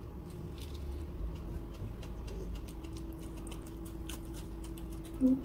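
A person chewing food close to the microphone: many small wet mouth clicks and smacks over a steady low hum. Just before the end, a short, loud low tone stands out.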